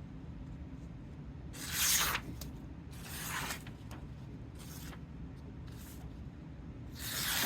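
Freshly sharpened 12-inch Henckels chef knife slicing through a sheet of paper: a series of short hissing cuts, the loudest about two seconds in and again near the end, with fainter ones between.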